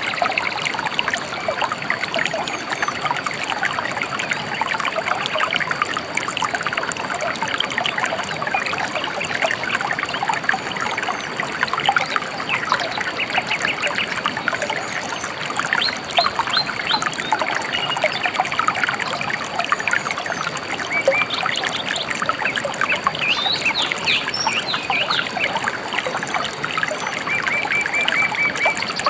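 A gently flowing river trickling and babbling steadily. Over it, small birds chirp now and then, more often in the second half, with a short trill near the end.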